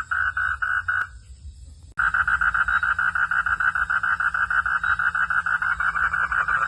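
Frogs calling in a rapid, even train of pulsed notes. The calling breaks off briefly about a second in and starts again about a second later, denser than before.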